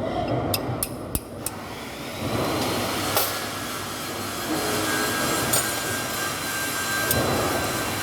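A few sharp metallic clicks, then from about two seconds in a steady rushing mechanical noise with a thin high whine.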